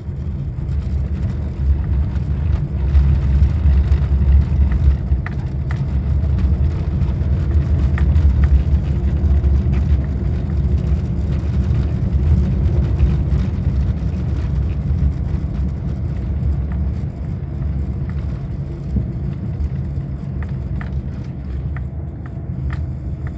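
First-generation Toyota Vios being driven, a steady low rumble of engine and road noise with faint scattered clicks, on a test drive after new strut mounts were fitted.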